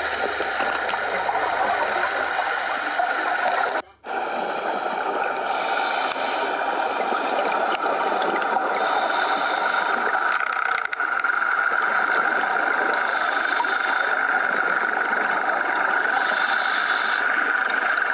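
Scuba diver breathing through a regulator underwater: an inhale or exhale about every three to four seconds over a steady hiss, with a brief cut about four seconds in.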